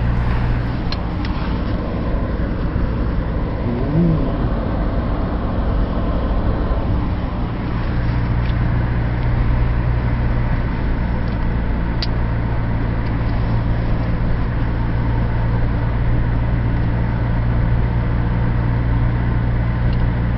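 A car driving at steady speed: a constant engine hum with road noise, and a few faint ticks.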